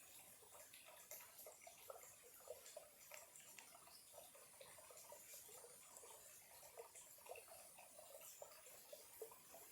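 Small clear stream trickling faintly, a quick, irregular patter of little water plinks and gurgles.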